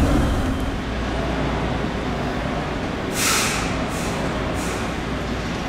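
Automated airport people-mover train running, a steady low rumble. A short, loud burst of hissing comes about three seconds in, followed by two fainter ones.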